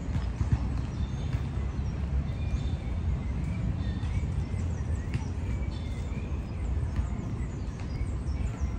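Birds chirping and whistling in quick, repeated short calls over a steady low rumble.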